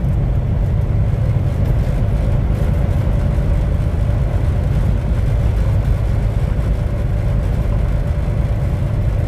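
Steady engine and road noise inside a semi-truck's cab at highway speed: a deep, even rumble with a faint steady hum above it.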